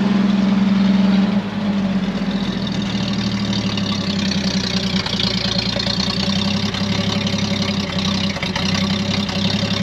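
1949 International KB-5's original Green Diamond 233 six-cylinder engine idling after a cold start; the idle eases down a little about a second in and then runs steadily.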